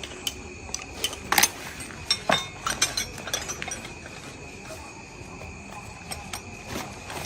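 A run of light clicks and clinks from hard objects being handled, most of them in the first few seconds, over a faint steady high-pitched tone.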